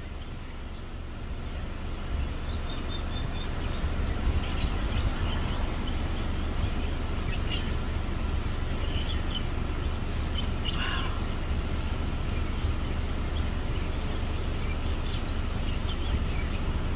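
Scattered short bird calls and chirps over a steady low rumble.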